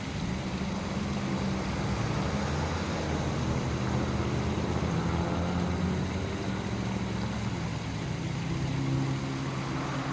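A motor vehicle engine running steadily, a low hum under a rushing noise.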